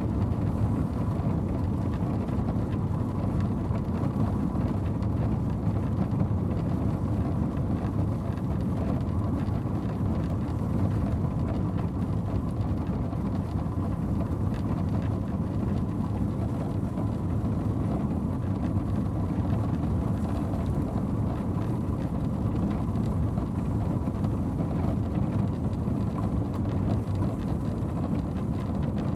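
Horse-drawn stagecoach drawn by four horses, rolling along with a steady low rumble of wheels and carriage.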